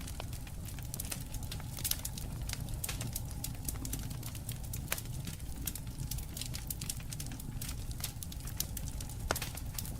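Wood campfire crackling, with many irregular sharp pops over a steady low rumble; a few louder pops stand out about two, five and nine seconds in.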